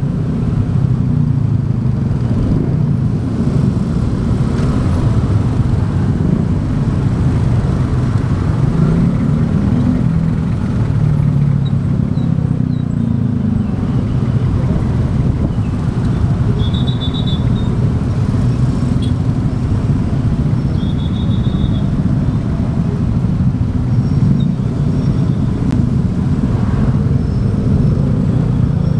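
Motorbike engine running steadily while riding, with road noise, and two short high-pitched tones near the middle.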